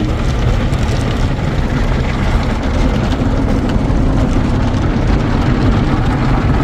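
Automatic car wash running over a truck: a steady, dense low noise of water spray and wash machinery.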